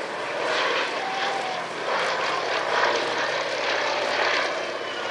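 Fairey Swordfish biplane in flight, its Bristol Pegasus nine-cylinder radial engine and propeller droning steadily with slight swells in level.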